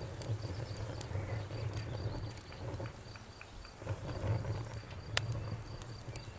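Wood campfire burning with a steady low rumble of flame and scattered crackles and pops, the sharpest snap about five seconds in. A faint steady high-pitched trill runs underneath.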